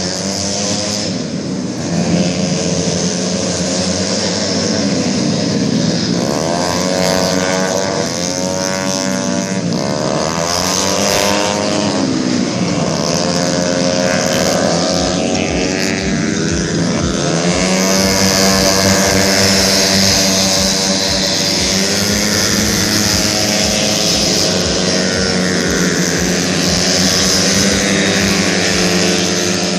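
Several tuned automatic scooter engines racing at high revs, their whine rising and falling again and again as the machines pass, with more than one engine heard at once.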